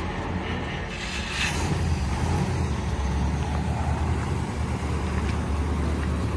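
The 1940 Cadillac Series 60's 346 cubic inch flathead V8 running with a steady low rumble, which grows a little louder about a second in.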